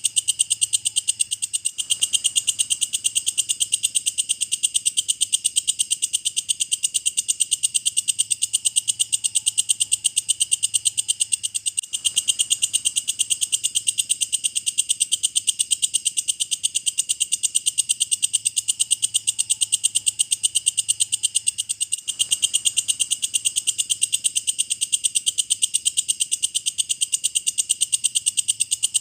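Walang kecek, a singing insect, calling in a continuous, steady, high-pitched train of rapid, even clicking pulses.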